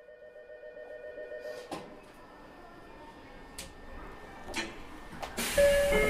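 Inside a Tokyo Metro 03 series subway car standing at a station: a faint pulsing tone and a few sharp clicks and knocks, then about five and a half seconds in the background noise jumps up and a two-note chime starts sounding.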